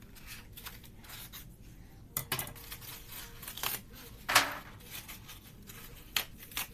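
Sharp utility scissors snipping through a paper egg carton: a run of irregular short cuts, a few of them louder and crisper than the rest.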